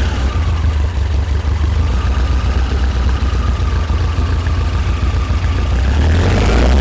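Air-cooled 1900 cc VW flat-four with dual EMPI 40 IDF carburettors idling steadily, picking up slightly near the end, during ignition timing set to 28 degrees.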